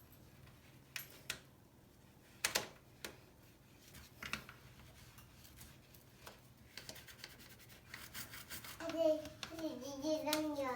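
A few scattered sharp clicks and knocks, then a quick run of faint ticks. Near the end a young child's voice comes in, drawn out and wavering.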